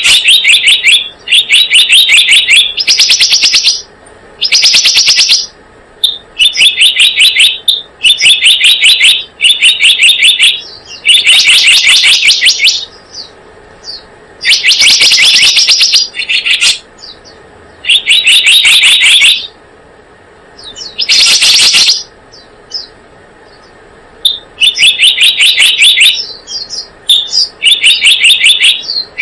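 Recorded bird call played as a trapping lure: rapid, rattling chirp trills in bursts of about a second each, repeated over and over with short gaps, very loud.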